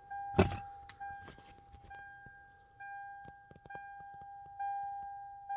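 Car warning chime dinging about once a second, one steady pure tone that fades between strikes. There is a sharp click about half a second in.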